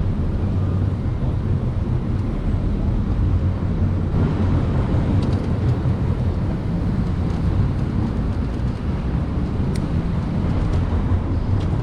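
Steady rush of wind and road noise heard while riding an Onyx RCR electric motorbike through city traffic.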